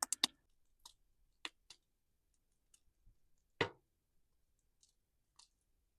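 Newly lit wood campfire crackling: scattered sharp pops and snaps at irregular intervals, with one louder crack about three and a half seconds in.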